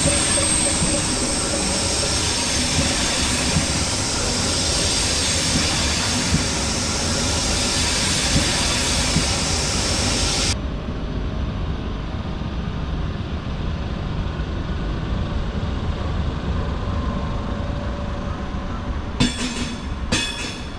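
ÖBB Railjet train running through the station, a steady rumble of wheels on rail with some wheel squeal. About halfway the high hiss cuts off abruptly and the rumble goes on more quietly, with a few sharp knocks near the end.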